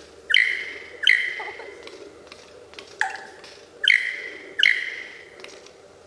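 A bird calling: five loud calls, each starting sharply and fading away, two in the first second or so and three more from about three seconds in.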